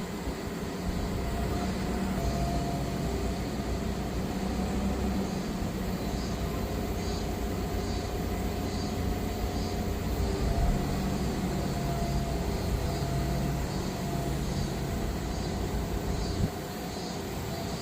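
Diesel engine of a Manitou MRT3570 rotating telehandler running steadily under lifting work, with faint high chirps repeating a little faster than once a second. The engine noise drops suddenly near the end.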